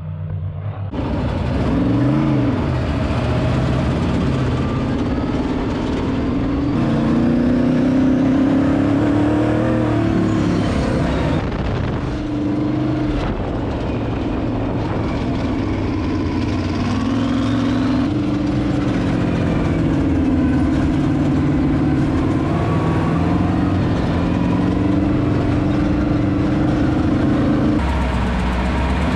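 A vehicle engine running, its pitch rising and falling as the revs change.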